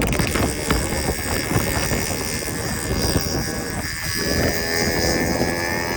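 Yamaha RX100 single-cylinder two-stroke engine running, with a steady pitched tone coming in about four seconds in.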